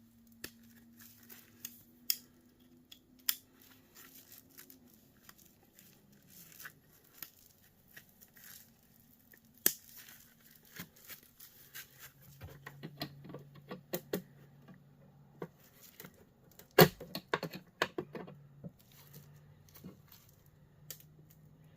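Scattered clicks, clinks and knocks of hand tools and small metal and plastic parts being handled while an electric heater is taken apart at a snap ring. The knocks get busier in the second half, with the loudest about 17 seconds in, over a faint low steady hum.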